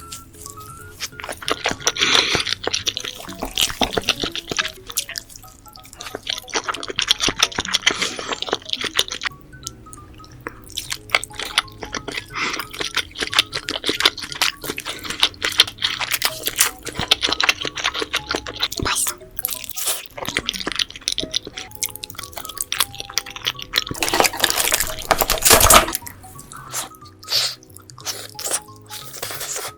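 Close-up eating sounds of seafood: shell crackling, crunching and wet, sticky chewing in quick irregular clicks, over background music.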